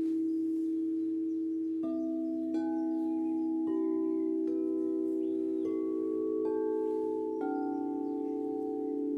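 Singing bowls ringing in long, sustained tones. A new note is struck about every second from about two seconds in, and the notes layer into a slowly shifting chord.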